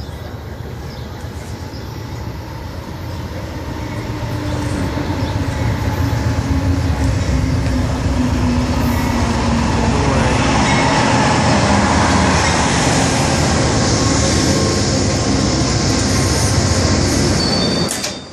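Amtrak passenger train pulling into the station behind a GE Genesis diesel locomotive. A low engine rumble grows louder over the first several seconds, then the coaches roll past close by in a steady loud rush. A thin, high squeal from the slowing train is heard near the end.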